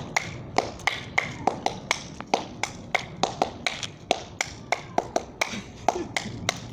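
A fast funk beat of sharp percussive taps, about four to five a second, with some strokes accented louder than others.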